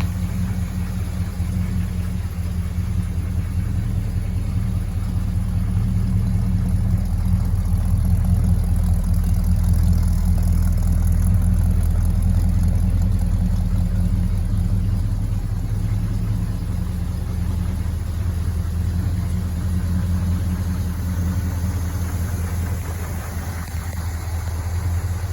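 Small-block Chevy 350 V8 idling steadily, a little louder around the middle.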